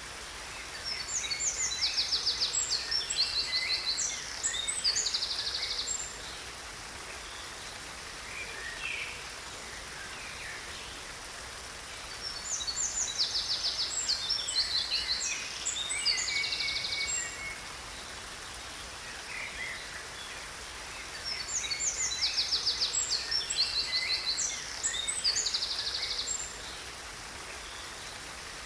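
Songbird singing bouts of rapid high trills and chirps over a steady rush of falling water. The same roughly five-second song comes three times, about ten seconds apart, with only the water sound between the bouts.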